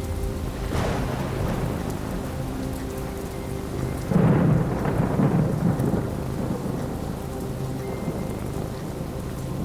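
Steady rain falling through a thunderstorm. Thunder crackles about a second in, then a loud rumble of thunder follows about four seconds in and lasts roughly two seconds.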